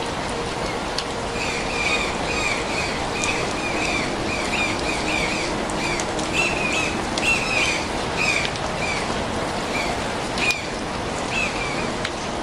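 Steady rain, with a bird calling over it in a long series of short, quick chirps that start about a second and a half in and stop near the end.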